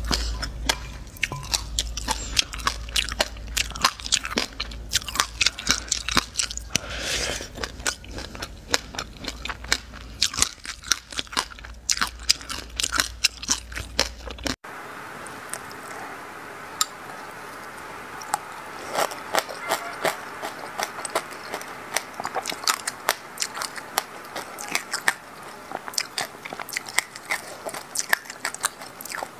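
Close-miked chewing and crunching of mouthfuls of raw sesame seeds, a dense run of fine crackles. A low hum underneath stops abruptly about halfway through, where a second eater's chewing takes over.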